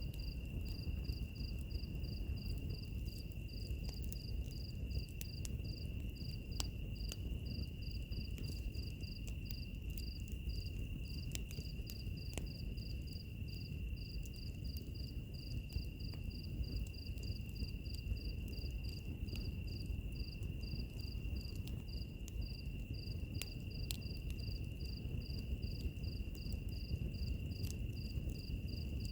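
Wood fire burning with a low steady rumble and scattered sharp crackling pops, mixed with insects: one holding a continuous high trill and another chirping at about three chirps a second.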